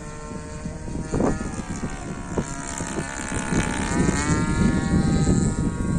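DLE 20cc single-cylinder two-stroke petrol engine of an RC warbird plane in flight, its pitch climbing steadily and then falling sharply a little after four seconds in. Wind rumbles on the microphone and grows louder.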